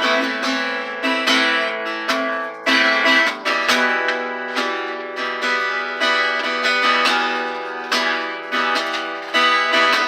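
Acoustic guitar strummed in a steady rhythm of chords, a fresh strum about every three quarters of a second, as the instrumental intro to a song.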